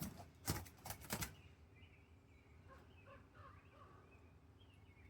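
A trapped small bird fluttering its wings in a few brief bursts during the first second and a half, then giving faint chirps.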